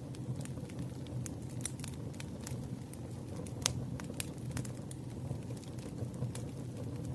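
Wood campfire crackling: a steady low rush with scattered sharp pops and snaps throughout.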